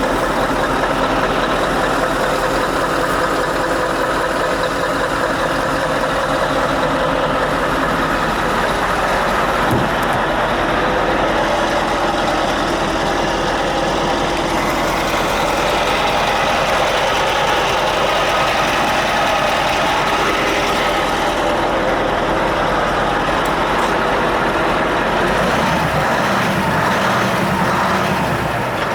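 Scania S730 truck's V8 diesel engine running steadily.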